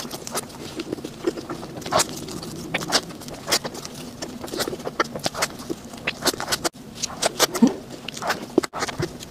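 Close-miked chewing of soft cream-filled sponge cake: irregular wet mouth clicks and lip smacks, several a second.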